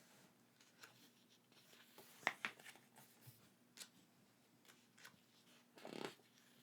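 Faint handling sounds of unboxed merchandise and packaging: a few light clicks and taps, the sharpest two close together a little over two seconds in, and a short rustle near the end.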